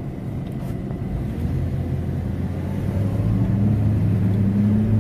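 SUV engine and road noise heard inside the cabin while driving. The engine note rises gradually over the last few seconds as the vehicle speeds up.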